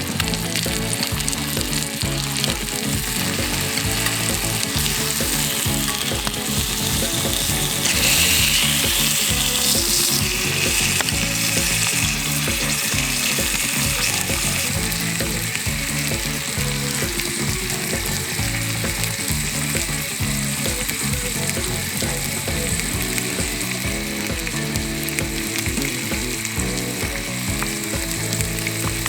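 Food frying and sizzling in a pan, a steady hiss that swells louder for a couple of seconds about eight seconds in.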